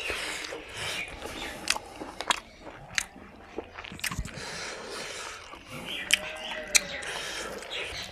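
Close-up chewing of fried pork and rice, with irregular sharp, wet lip smacks about once a second.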